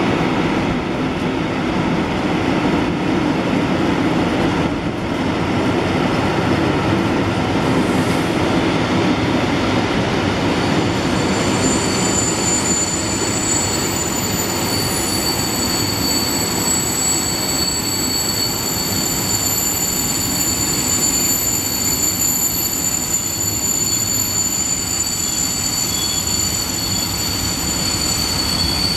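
Freight train of empty container flat wagons rolling past, a steady noisy rumble and rattle of wheels on rails. About a third of the way in, a steady high-pitched wheel squeal sets in and keeps on.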